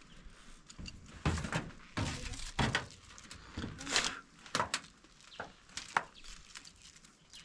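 A string of irregular knocks and short scrapes, about a dozen over several seconds, like hard objects being handled and struck during installation work.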